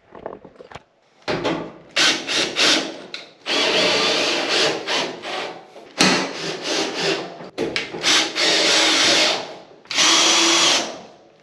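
Power drill driving screws into dryer panels, in a series of short bursts and longer runs of one to two seconds with pauses between.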